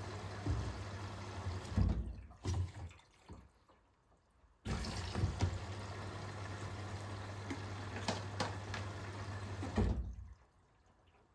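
Hoover H-WASH 500 front-loading washing machine tumbling a wet load. The drum motor hums while water and laundry slosh and thud inside. It stops about two seconds in, starts turning again after a pause of a couple of seconds, runs for about five seconds and stops again near the end.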